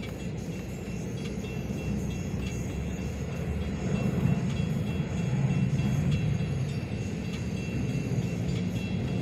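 Metra bilevel commuter coaches rolling through a grade crossing: a steady rumble of wheels on rail that grows louder about four seconds in, over the repeated ringing of the crossing signal's bell.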